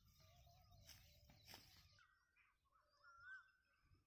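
Near silence outdoors, with faint bird calls: a scatter of short chirps and whistles, a few of them rising then falling, clearest about three seconds in.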